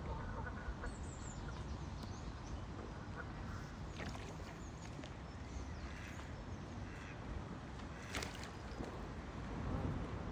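Ducks and other waterfowl calling here and there, faint and short, over a steady low rumble, with a sharp click about eight seconds in.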